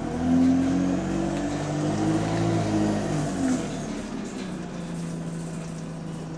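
A diesel bus engine accelerating under load. Its note climbs and drops back in steps during the first few seconds, then settles to a steadier drone. The bus has an exhaust leak.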